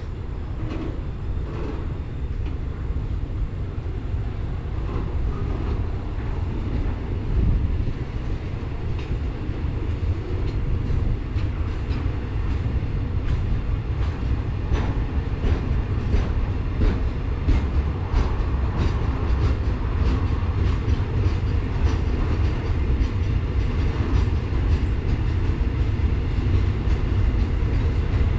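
Container wagons of a freight train rolling past, a steady low rumble with steel wheels clacking over rail joints, the clacks coming thicker and the sound growing slowly louder through the second half.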